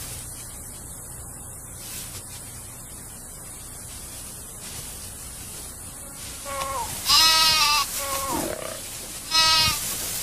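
Impala bleating in distress while being killed by cheetahs: a few harsh calls in the second half, the two loudest about two seconds apart.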